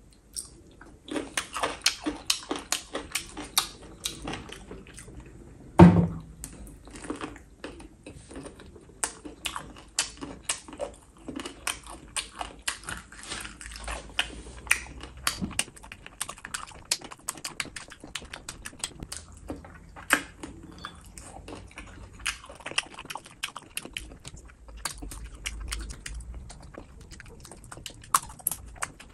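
Close-miked chewing of chicken feet: a dense, rapid run of wet clicks and smacks as the skin and cartilage are bitten and chewed, with one loud thump about six seconds in.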